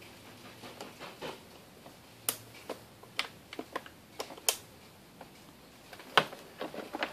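Irregular sharp plastic clicks and taps from handling the wiring connectors on the back of an aftermarket headlight housing, with the loudest snaps about two, four and a half and six seconds in.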